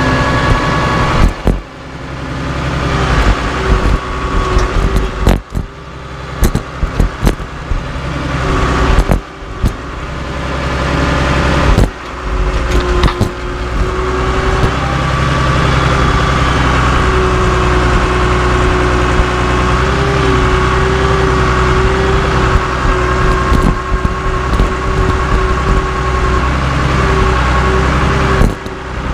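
Caterpillar D3C LGP bulldozer's diesel engine running, with a string of sharp knocks and bangs over roughly the first half. After that the engine runs steadily with a held, slightly wavering tone.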